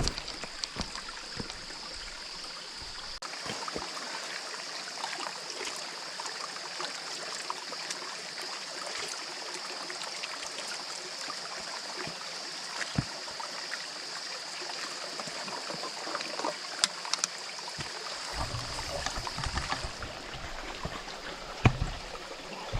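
Small forest stream trickling steadily over rocks, with scattered light knocks and clicks.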